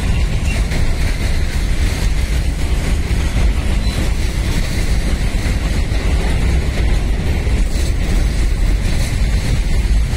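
Container freight train wagons rolling past, a loud steady noise of wheels on rail.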